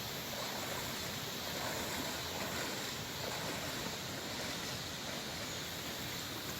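Mountain stream water running, a steady even rushing noise.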